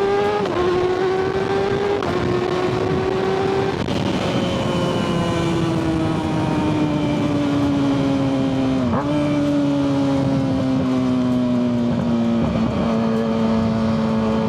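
Kawasaki ZX-6R 636's inline-four through a Yoshimura full exhaust, heard from the saddle while riding. The revs climb and drop back through a few quick upshifts in the first four seconds, then fall slowly off the throttle, with a quick downshift about nine seconds in.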